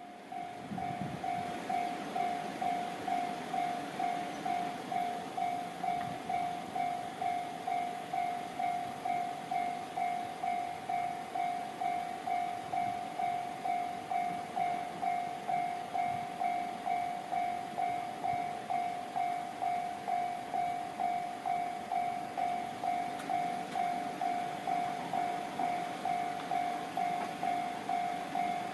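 Railway level-crossing warning bell ringing steadily at about two strokes a second, the signal that a train is approaching the crossing.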